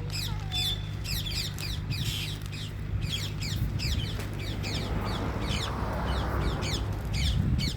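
A flock of house sparrows chirping: many short falling chirps, several a second, over a steady low hum. A broad rushing noise swells up in the second half and drops away just before the end.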